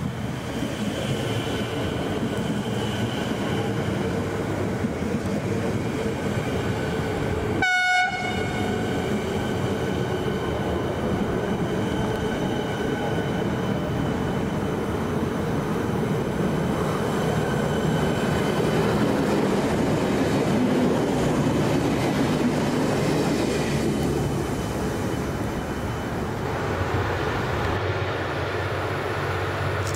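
A train approaching with steady wind noise throughout, and a short horn blast about eight seconds in. Near the end the low steady running of a V/Line N class diesel-electric locomotive comes in as it draws closer.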